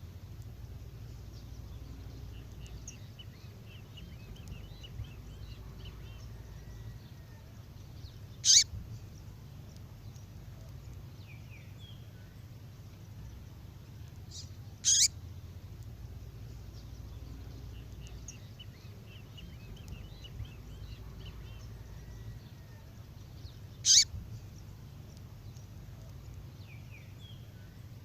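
Female songbird call used as a lure for competitive songbirds: three loud, short, sharp calls several seconds apart, with faint twittering between them over a low steady hum.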